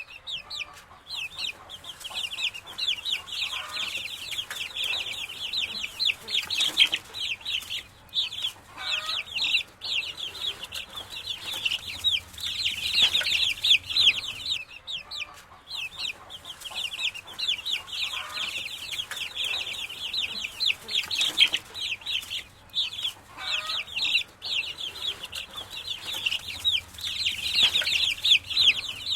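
Many young chicks peeping at once: a continuous chorus of short, high-pitched cheeps that fall in pitch, with a few lower calls every several seconds.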